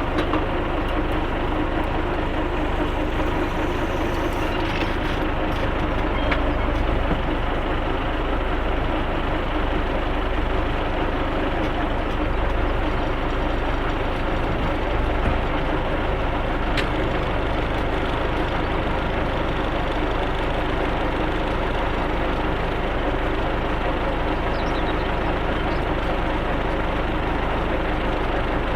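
Tractor engine running steadily under load, pulling field rollers to firm the soil after sowing.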